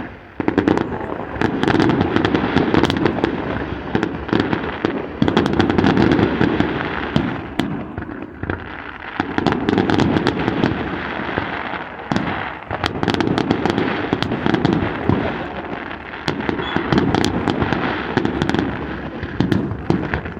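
Competition fireworks display: rapid crackling and popping shells over repeated heavy booms, coming in surges a few seconds long.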